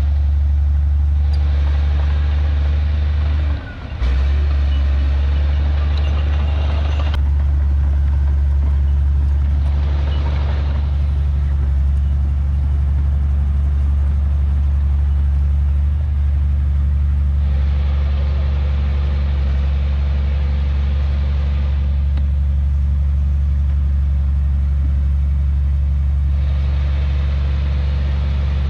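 Heavy diesel earthmoving engine running steadily with a deep, even hum. It drops out briefly about four seconds in.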